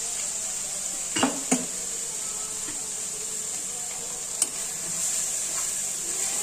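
Onions and ginger-garlic paste frying in oil in a non-stick kadai, a steady sizzle, with sharp clicks of a metal spatula against the pan twice about a second in and once after four seconds.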